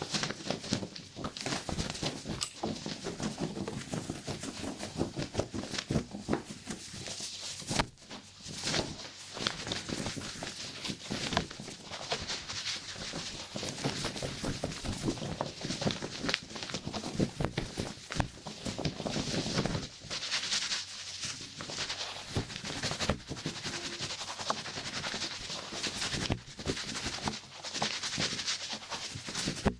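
Scissors snipping hair in quick, irregular strokes close to the microphone, with a brief pause about eight seconds in.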